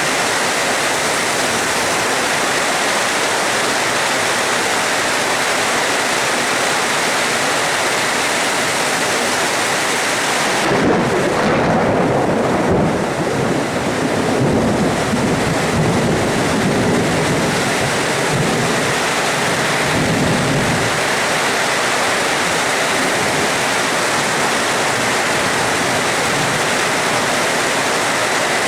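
Steady, heavy rain hiss. About ten seconds in, a long rolling rumble of thunder builds and lasts roughly ten seconds before fading back into the rain.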